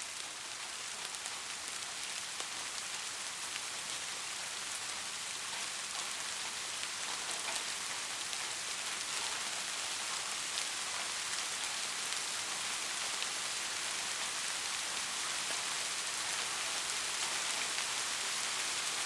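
Steady heavy rain, a dense hiss of drops with many small individual splats, slowly swelling in loudness.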